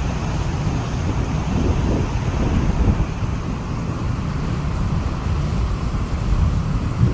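Kiha 48 diesel railcar running by: a steady low rumble of engine and wheels, with a brief knock near the end.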